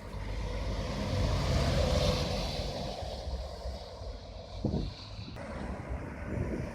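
Road traffic passing, a vehicle going by with its engine and tyre noise swelling about one to two seconds in, with wind on the microphone. The sound changes abruptly about five seconds in.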